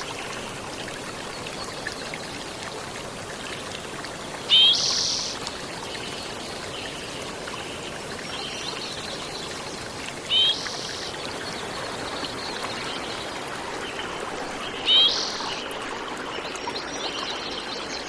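Steady rush of running water, with a bird giving a short, loud call three times, about every five seconds.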